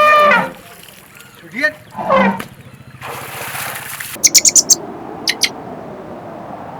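Animal calls: three loud pitched calls in the first two and a half seconds, then a quick run of about half a dozen short high chirps about four seconds in and two more a second later, typical of a small bird.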